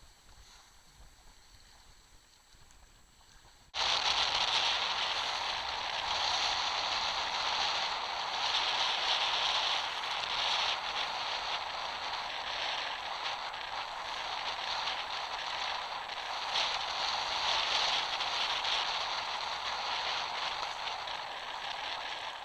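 Rain pattering close on the microphone, a dense, steady crackling hiss that starts abruptly about four seconds in after a quieter stretch.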